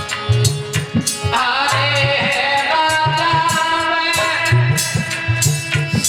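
Baramasi folk song: an instrumental passage with a regular drum beat, and a sung vocal line coming in about a second in.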